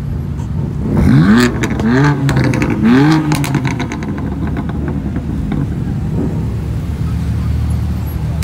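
BMW M4's twin-turbo straight-six revved three times in quick blips about a second apart, each rising and falling in pitch, then running steadily at low revs.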